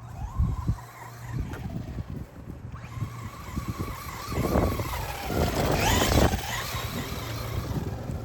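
Electric RC rally car's motor whining as the car drives through long grass. The whine dips and rises again about five to six seconds in, alongside the rustle and grit of the tyres in the grass.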